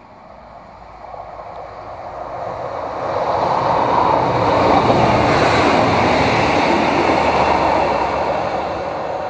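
Network Rail's Class 950 track-recording diesel multiple unit 950001 running through a station at speed. Its rumble and wheel noise build as it approaches, are loudest as it passes about five seconds in, then fade as it moves away.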